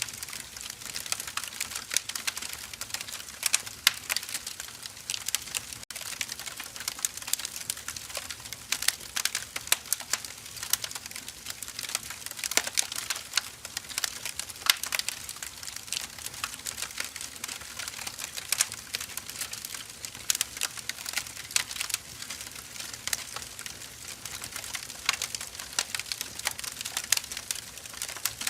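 Firewood burning, with a constant stream of irregular sharp crackles and pops over a soft hiss.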